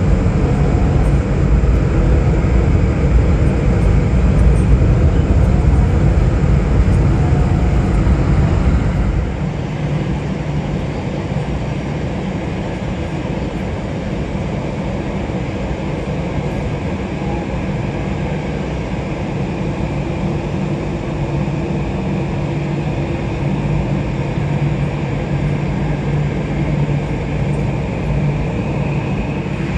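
Jet airliner engines running, loud for the first nine seconds, then dropping suddenly to a steadier, quieter engine sound with a faint steady whine.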